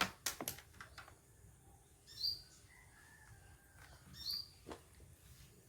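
A small bird chirping: three short, high chirps about two seconds apart. A few soft clicks come just after the start.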